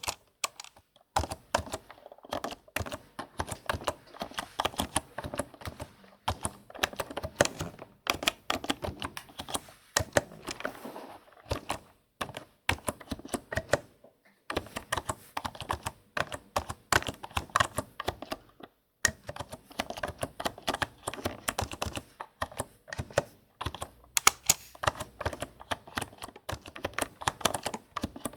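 Computer keyboard being typed on in fast runs of key clicks, with a few brief pauses.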